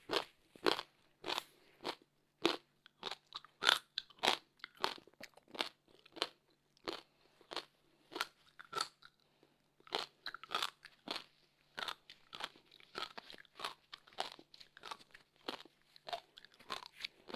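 Close-up chewing of frozen passion fruit ice: a run of sharp, separate crunches, about two a second, as the ice is bitten and ground between the teeth. A faint steady hum sits underneath.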